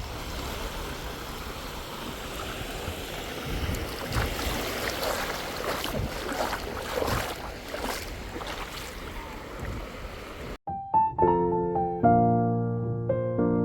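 Steady background noise with scattered faint sounds, which cuts off abruptly about ten and a half seconds in. Solo piano music follows, with slow sustained notes and chords.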